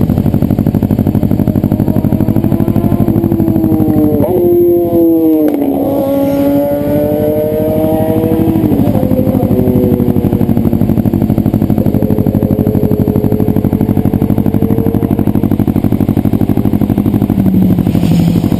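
Kawasaki ER-6 parallel-twin motorcycle engine running under way. The engine note drops about four seconds in and climbs again over the next few seconds, then holds steady.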